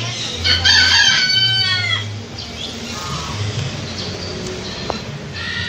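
One loud bird call about half a second in, drawn out for under two seconds and falling in pitch at its end, followed by a few fainter calls.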